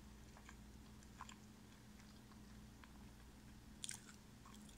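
Faint chewing of a breaded chicken strip with the mouth closed: soft, scattered mouth clicks, one sharper click about four seconds in, over a low steady hum.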